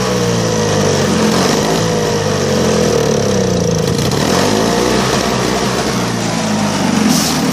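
John Deere TRS 21 snowblower's Tecumseh two-stroke engine running after a cold start, its speed drifting up and down rather than holding steady. The owner figures the carburetor probably needs cleaning, and the gas in it is old.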